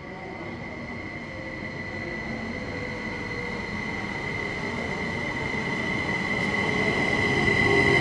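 SBB electric passenger train pulling into the station platform, its running rumble growing louder as it comes near, with a steady high-pitched squeal from the wheels or brakes that grows stronger as it slows past.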